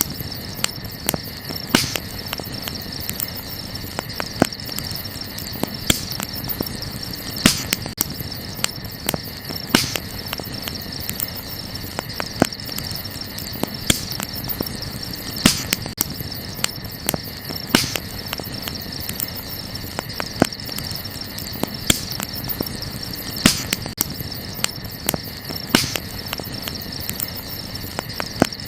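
Wood campfire crackling, with sharp pops every couple of seconds over frequent small snaps. Behind it, a steady high chirring of night insects such as crickets.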